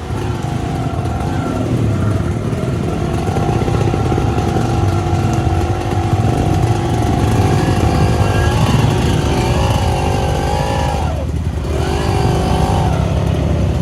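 Off-road trail motorcycle engine running under varying throttle, its pitch rising and falling. The revs drop sharply and pick up again about eleven seconds in.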